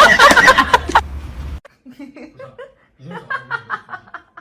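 A loud, wavering pitched clamour cuts off abruptly about a second and a half in, followed by people chuckling and laughing softly.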